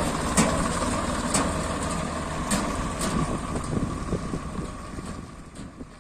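Swaraj 855 FE tractor's three-cylinder diesel engine running steadily, with a steady high whine and scattered clanks. It fades out over the last few seconds.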